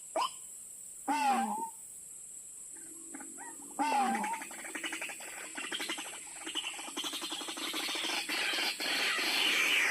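White-breasted waterhen (ruak-ruak) calls: a few sharp notes, then two wavering calls at about one and four seconds in, breaking into a dense, rapid chattering chorus that grows louder toward the end.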